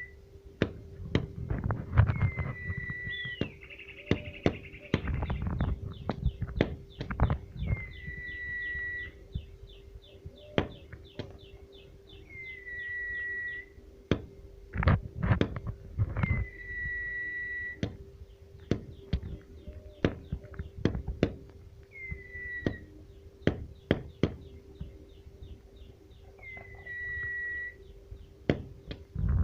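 A bird calling with a single clear whistled note that dips slightly and then levels off, repeated every three to five seconds, with fast runs of dry ticks between calls. Sharp clicks and knocks, the loudest sounds here, come throughout over a low steady hum.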